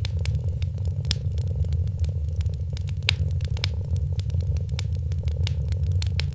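A cat purring steadily, a low continuous rumble, over the crackling of a wood fire, with many sharp irregular pops and snaps.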